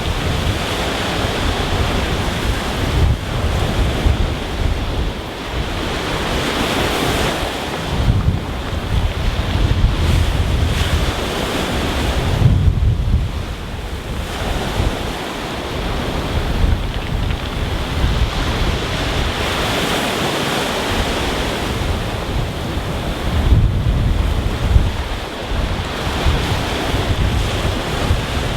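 Rough sea breaking on a stony beach, waves surging in and washing back over the pebbles in swells every few seconds. Wind buffets the microphone, adding a low rumble.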